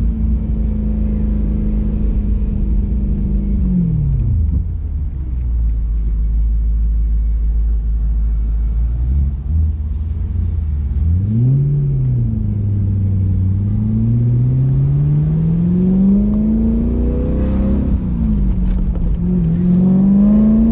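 BMW E93 M3's V8 engine and exhaust heard on the move: the revs hold steady, fall off about four seconds in and stay low for several seconds, then climb again with a short blip and a long rising pull, dipping briefly near the end before rising once more.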